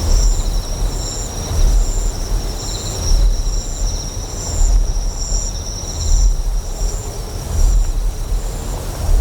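Deep, pulsing generator hum that swells about every second and a half, over a bed of flowing water and insects chirping in a steady high rhythm.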